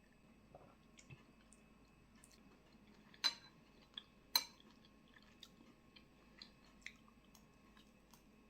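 Eating utensils clinking against a bowl, with quiet chewing. Two sharper clinks come a little over three and four seconds in, with softer ticks scattered between them.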